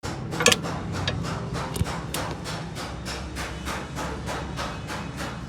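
Hammer blows in a quick, even rhythm, about three a second, with a heavier blow about half a second in, over a low steady hum.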